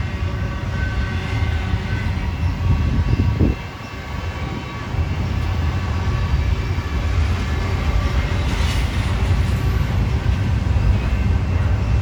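Freight train rolling past: a heavy, steady rumble of wheels on rail that dips briefly about three and a half seconds in, then carries on.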